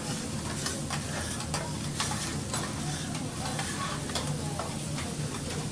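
Food sizzling on a teppanyaki griddle, with many quick clicks and taps of a metal spatula stirring and turning it on the hot plate.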